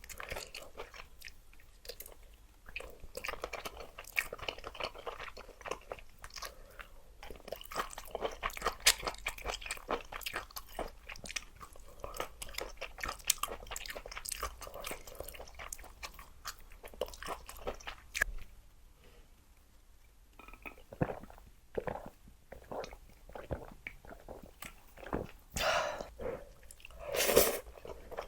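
Close-miked chewing of luosifen rice noodles, with a dense run of small wet crunching clicks. The chewing eases off for a few seconds past the middle, and two louder, longer mouth sounds come near the end.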